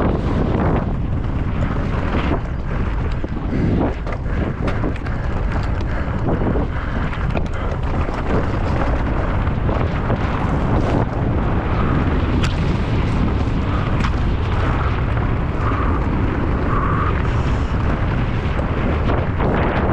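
Mountain bike racing downhill: loud wind rush on the microphone with rumble, plus frequent sharp knocks and rattles as the bike hits rough ground.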